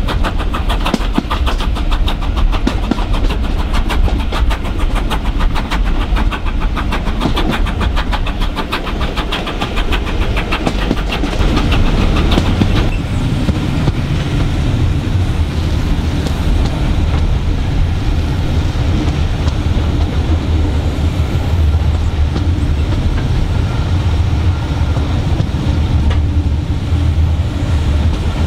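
Steam-hauled passenger train heard from an open carriage window. For about the first thirteen seconds there is a fast, even rhythm of beats; after that the rhythm stops and a steady low rumble of the carriages rolling on the rails remains.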